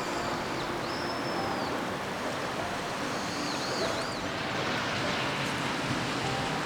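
Steady hiss of rain and flowing river water. A few short, high, arching whistled calls sound over it near the start and again about three seconds in.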